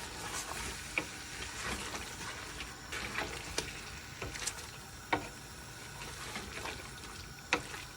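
Chicken pieces and onions sizzling in a frying pan over full gas, with a spoon stirring them and clicking against the pan now and then.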